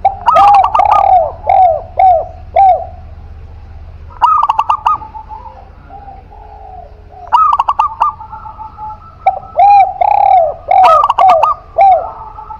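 Spotted dove (tekukur) and zebra dove (perkutut) cooing: several phrases of quick clipped notes running into rounded, falling coos, with gaps of a second or two between phrases.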